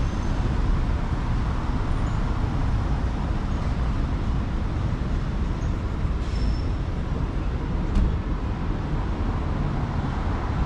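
Street traffic noise, a steady low rumble of passing vehicles, with a single sharp click about eight seconds in.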